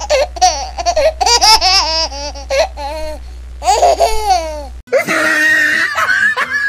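A young child laughing in quick, high-pitched bursts, dubbed over the video as a sound effect. Near the end the sound cuts abruptly to a different, hissier clip.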